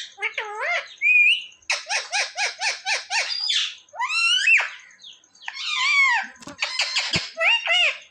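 Ringneck parrot vocalizing in a continuous string of calls. A fast run of about eight repeated chattering notes is followed by rising and falling squawks and chirps.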